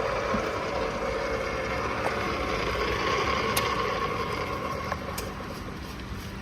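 REX 90A3 pipe threading machine running, its motor and gears giving a steady hum. The hum dies down about five seconds in, with a couple of light clicks.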